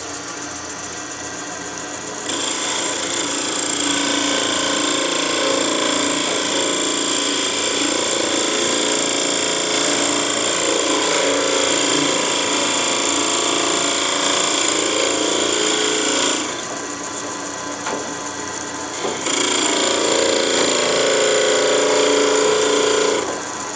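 Wood lathe running steadily while a turning tool cuts into the small spinning workpiece, thinning the delicate stem of a wooden ornament. The cutting hiss comes in two spells: a long one starting about two seconds in, and a shorter one near the end after a brief pause.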